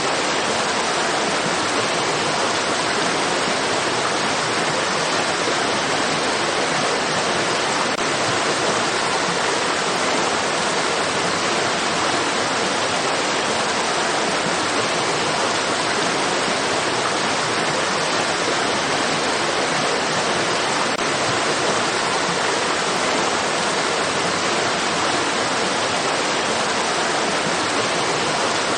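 Running water rushing steadily, an even, unbroken hiss with no splashes or changes.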